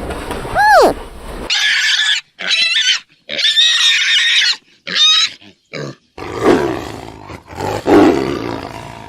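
A string of different animal calls, cut together with abrupt breaks. It starts with a falling pitched call, then a run of high, wavering squeals, and ends with a lower, rough call.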